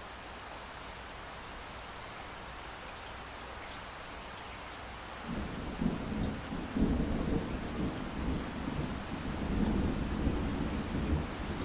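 Steady rain hiss, joined about five seconds in by a low, rolling rumble of thunder that swells and keeps going, louder than the rain.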